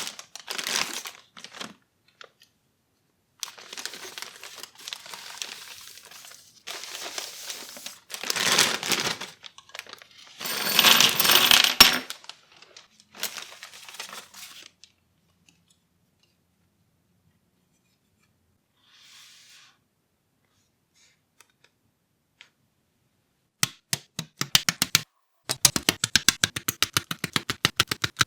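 Handling of plastic model-kit parts and their packaging: several bursts of crinkling and rustling, the loudest near the middle. Then a long quiet stretch and a fast run of small sharp clicks near the end.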